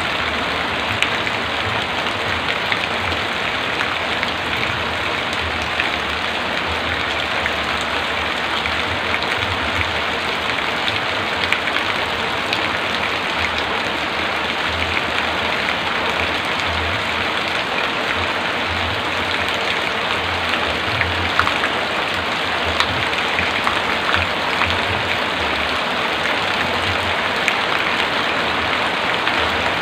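Heavy rain falling steadily, an even patter with scattered louder drops.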